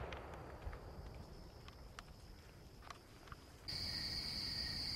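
Firework display: the echo of a firework bang fades at the start, followed by a few faint, scattered pops and crackles. About three and a half seconds in, a steady hiss with a faint high whine cuts in abruptly.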